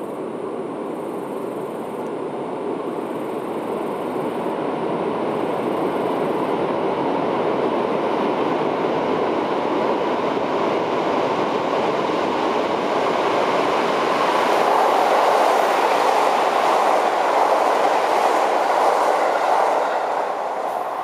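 Train passing through the station without stopping: a steady rumble of wheels on rails that builds as it approaches, is loudest over the last several seconds, and drops off near the end.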